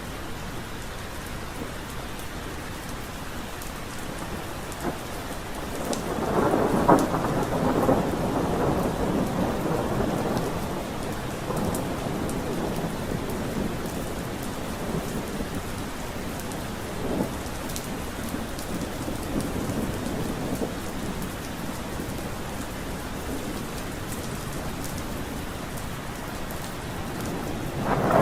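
Steady rain falling, with a roll of thunder rising about six seconds in and rumbling away over several seconds, and another peal starting near the end.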